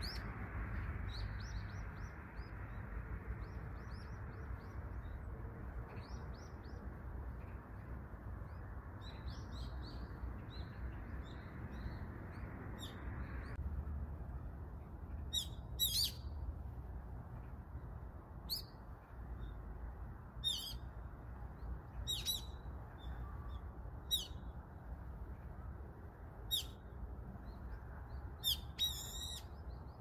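Birds calling: faint twittering in the first half, then loud, shrill calls repeated about every two seconds, a couple in quick pairs near the end, over a steady low rumble.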